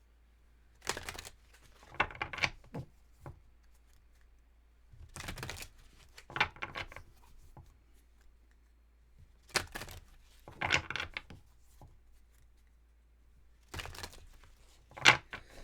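Tarot cards being handled and shuffled, in about eight short bursts of card noise with quiet gaps between them.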